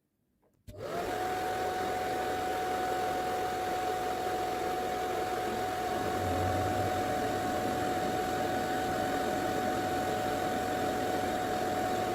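Hooded hair dryer switched on about a second in: its motor spins up with a brief rising whine, then runs with a steady whirring blow of air and a constant hum.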